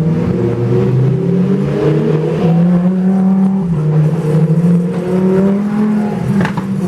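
Supercar engine being revved and accelerated, its pitch rising and falling several times, with a single sharp exhaust pop near the end.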